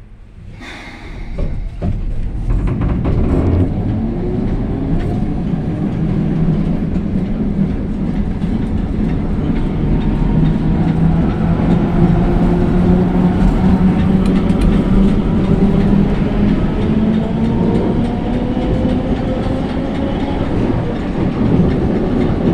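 2003 Iveco-Fiat tram running along the rails, building up over the first two seconds and then holding steady. A steady whine drifts slowly in pitch over the rattle of the wheels on the track.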